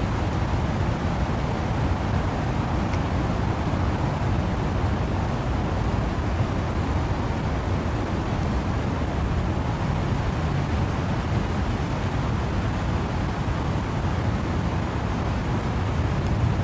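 Steady wind-and-rain ambience in trees: an even, unbroken rushing noise, heaviest in a deep rumble, with no single gust or drop standing out.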